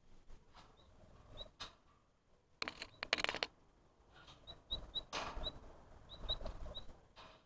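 A bird giving short, high peeps, singly and in quick runs, with two louder bursts of rustling noise in the middle and toward the end.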